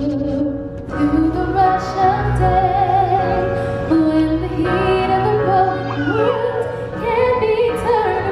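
Music with a woman singing long, gliding held notes over a steady, low sustained accompaniment.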